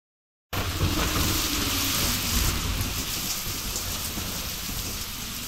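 Steady rain with a low rumble of thunder, starting about half a second in and slowly fading.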